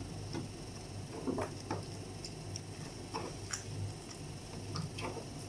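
Small, irregular clicks and soft crunches of people eating fried chicken, a few at a time, over a steady low hum.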